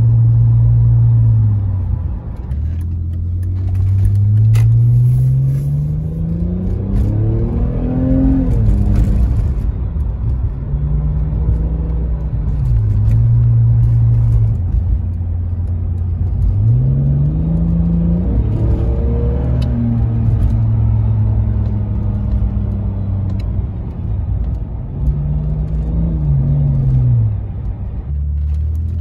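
BMW E46 engine, exhaust and intake heard from inside the cabin, climbing in pitch through the revs three times as the car accelerates and dropping back at each gear change, with steady cruising between.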